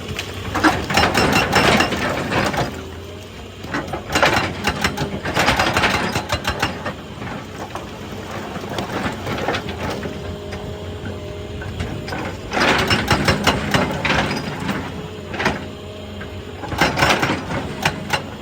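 Excavator engine running steadily, with four bursts of rock and stone grinding and crunching, each lasting one to three seconds.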